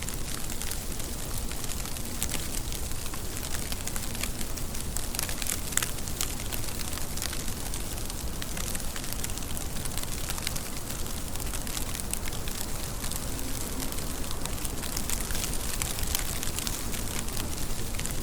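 Steady heavy rain, a dense patter of drops striking a surface over a constant low rumble.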